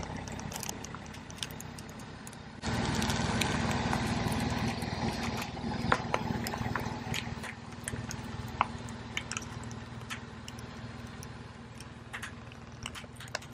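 Car engine idling with a steady low hum that gets louder about two and a half seconds in, while the tyre slowly rolls onto a plastic bottle packed with squishy balls; scattered sharp crackles and pops come from the plastic giving way under the tyre.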